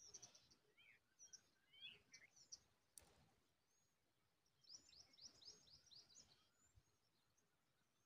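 Faint, thin, high bird chirps come and go. A little past the middle comes a quick run of about eight short notes, each sliding downward. There is one sharp click about three seconds in.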